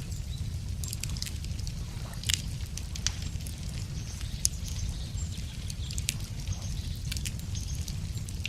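Wood campfire crackling, with irregular sharp pops and snaps every second or so over a steady low rumble.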